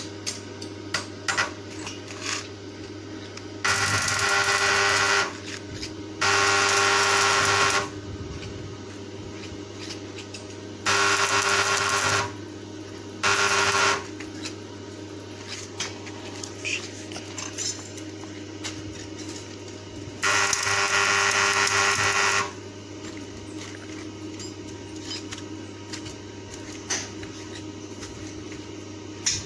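A small electric power tool run in five short bursts of one to two seconds each, the longest about two seconds near the end, with light clicks and knocks of handling between the bursts over a steady low hum.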